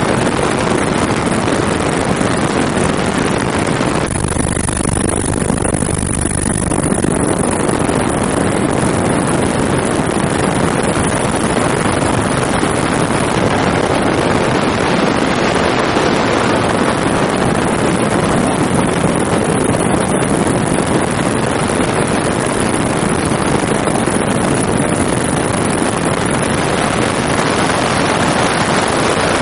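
Helicopter in flight heard from aboard: a steady, loud rush of engine, rotor and wind noise with a thin high whine on top.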